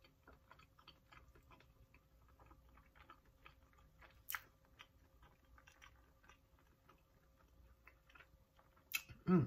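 Close-up mouth sounds of a person chewing a bite of a pig in a blanket (hot dog baked in crescent dough): soft, irregular wet clicks and smacks, with one sharper click about four seconds in and a short vocal sound at the very end.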